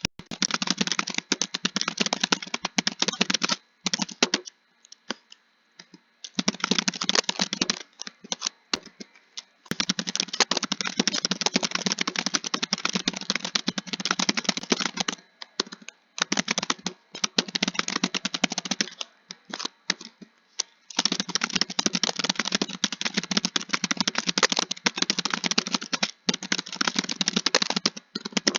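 Fast typing on a computer keyboard: rapid, dense keystrokes in long runs, broken a few times by pauses of a second or two.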